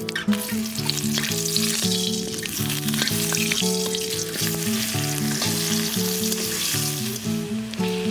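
Food sizzling as it fries in hot oil, over background music with a melodic line of low notes.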